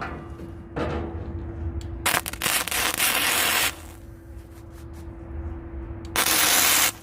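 Two loud bursts of rough, rasping abrasive noise over a steady hum: one about two seconds in lasting a second and a half, and a shorter one near the end.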